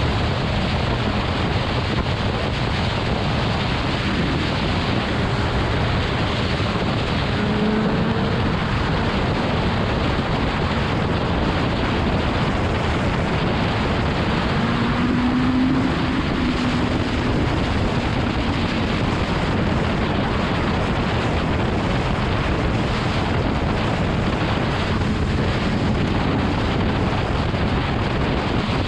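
Heavy wind noise buffeting the microphone of a motorcycle moving at highway speed. A faint engine note sits underneath and rises and falls in pitch a couple of times.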